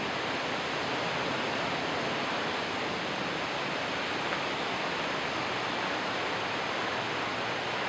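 Steady, even rushing noise of outdoor ambience, unchanging throughout.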